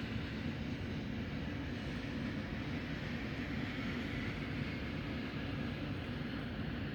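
Snowstorm wind blowing steadily, with a low rumble from gusts hitting the microphone.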